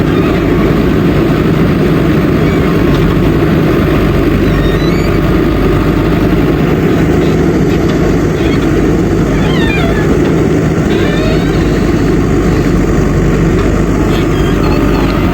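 Backhoe loader's diesel engine running steadily. A few brief high-pitched squeaks are heard a little past the middle.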